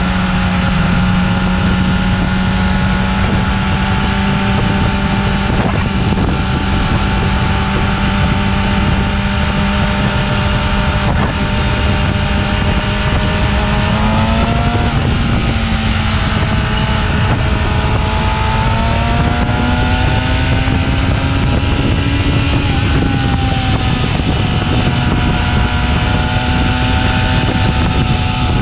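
Yamaha R6's inline-four engine with stock exhaust, running at steady revs. The pitch rises a little about halfway through, climbs again a bit later, then eases back and holds.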